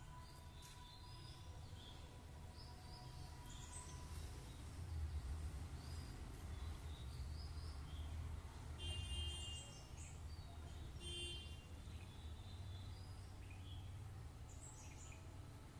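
Scattered short bird chirps over a steady low background rumble, with two louder pitched calls about two-thirds of the way through.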